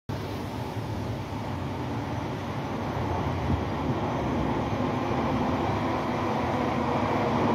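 Class 318 electric multiple unit approaching from a tunnel: a low rumble that grows slowly louder.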